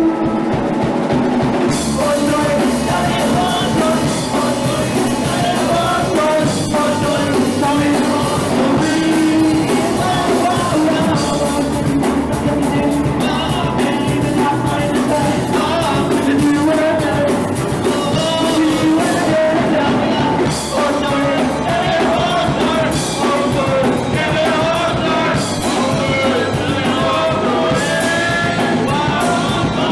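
Punk rock band playing live at full volume, with a drum kit and singing.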